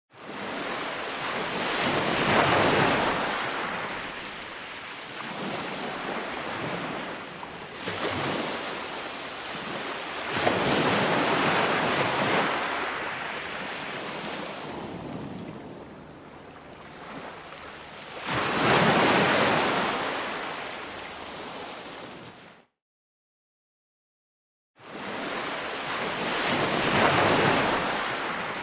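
Ocean waves breaking and washing up, coming in surges that swell and ebb about every eight seconds. The sound cuts out abruptly for about two seconds near the end, then the surf resumes.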